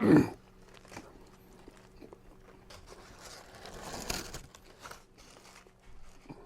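Someone eating a chicken sandwich: quiet bites and chewing with crinkling of the paper wrapper, loudest about three to four seconds in. It opens with a short, loud vocal sound that falls in pitch, over a faint steady hum.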